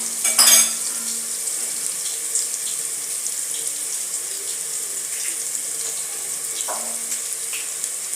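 Onions and coriander stems sizzling steadily in hot frying oil in a pan, with one sharp clatter about half a second in.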